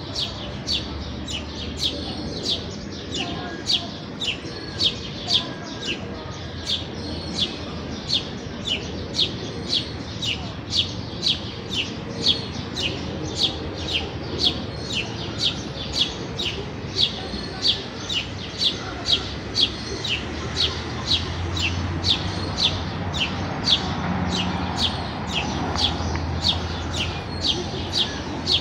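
House sparrow chirping over and over, about two short, sharp chirps a second, with a low steady rumble underneath.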